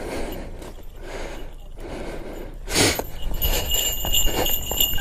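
Rustling, breath-like noise on the microphone, a loud short whoosh near the three-second mark, then a steady high-pitched ringing of bells that starts just after and keeps going.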